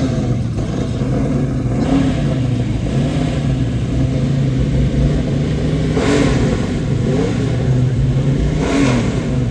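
Car engine running with a deep, steady drone, revved up and down several times, with two sharper revs about six seconds in and near the end.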